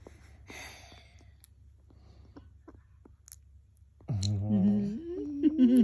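Faint small clicks, then, about four seconds in, a low voice humming or cooing. It holds steady for a moment, then its pitch slides up and wavers for under two seconds.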